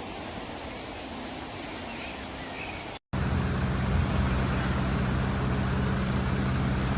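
A steady rushing noise; after a sudden cut about three seconds in, a louder steady motor hum sounds over the noise.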